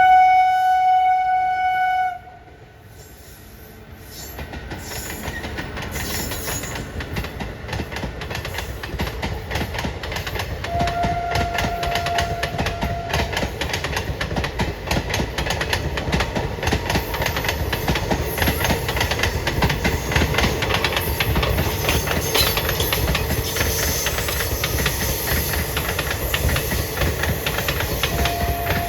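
Train horn blowing for about two seconds. The train's running noise then builds over several seconds into a steady rumble with rapid wheel clacks over the rail joints, and the horn gives a short blast about halfway through and again near the end.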